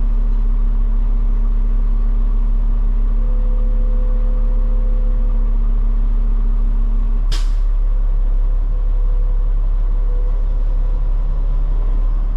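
Peterbilt 589 dump truck's diesel engine running with a steady low rumble; about seven seconds in, a short sharp hiss of air from the air brakes.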